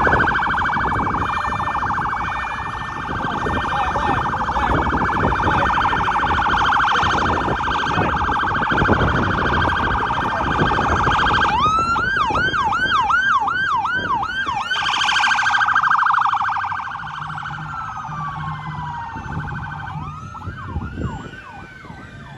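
Vehicle siren sounding a fast warble, switching about halfway through to a run of quick rising whoops, about two a second, for a few seconds. It goes back to the warble, then gives a short burst of faster whoops near the end as it fades.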